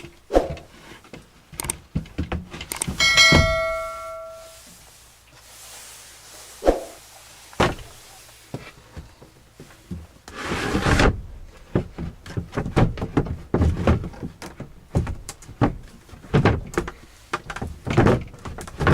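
Irregular knocks and thuds. About three seconds in there is one struck-metal ring that dies away over about a second, and around eleven seconds there is a short rushing swell.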